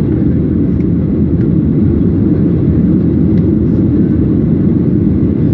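Airliner noise heard from inside the passenger cabin: a loud, steady low rumble of engines and airflow.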